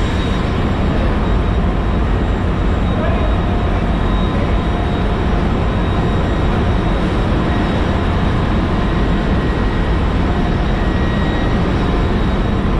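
Ship's engine-room machinery running: a loud, steady drone with a few thin whining tones held on top.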